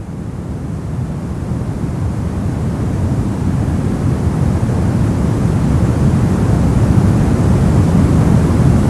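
Brown noise: a steady, deep rushing hiss with most of its weight in the bass, fading in and growing gradually louder.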